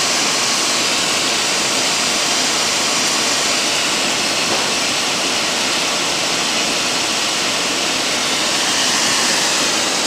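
Intermac Diamut diamond-wheel grinding machine running, reprofiling a turbo diamond wheel: a steady, even hiss of grinding that does not change.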